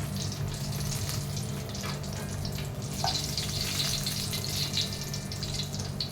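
Hot mustard oil sizzling and crackling steadily in a pan during deep frying.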